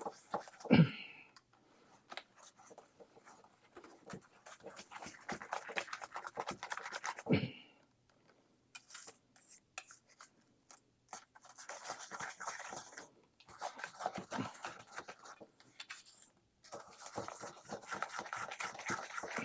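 Thick cookie dough being stirred and worked by hand in a bowl: irregular scraping and squelching strokes in stretches of a few seconds, with two louder sliding scrapes, about a second in and near the middle, as the tangzhong is mixed in.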